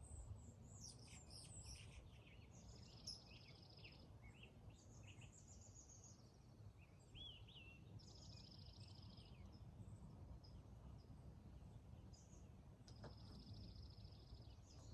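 Faint morning birdsong. One bird repeats a rapid, high trill three times, each about a second long, while other birds chirp and give short sliding notes. A low, steady background rumble runs underneath.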